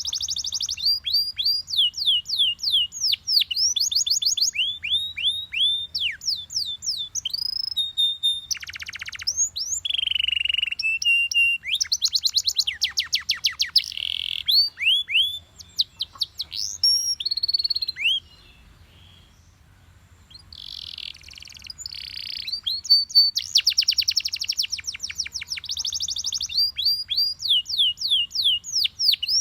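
Yellow Belgian canary singing a long song of fast rolls of repeated downward-sweeping whistled notes, changing to a new phrase every second or two. It breaks off for about two seconds roughly two-thirds of the way through, then goes on.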